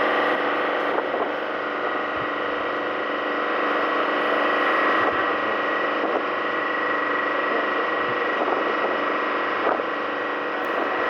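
Boat engine running steadily under way, a constant drone mixed with noise and a thin steady whine.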